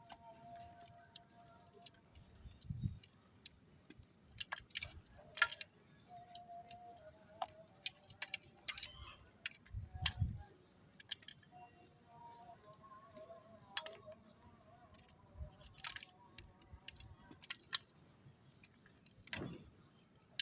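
Dry clay chunks being crushed, crumbling with scattered sharp crunches and crackles at irregular intervals and a few duller, heavier crunches.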